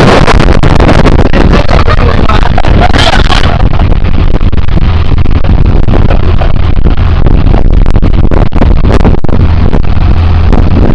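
Boat engine running steadily, very loud and distorted, with a constant low hum and a crackling noisy haze over it.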